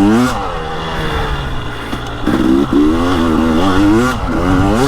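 The single-cylinder two-stroke TPI engine of a KTM 300 XC-W Erzberg dirt bike running on a trail ride. Its revs rise and fall with the throttle, dipping about a second in and picking up again after about two seconds.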